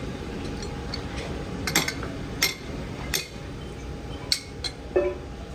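A handful of sharp metallic clinks and knocks, about six spread irregularly, over a steady low machinery hum in a gear workshop.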